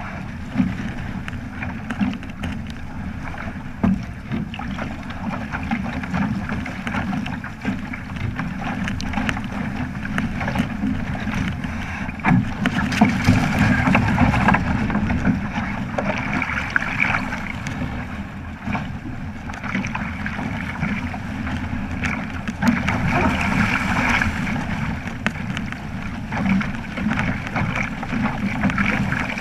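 Wind buffeting the microphone over water rushing along the hull of a Flying Fifteen keelboat under sail, the rush swelling twice.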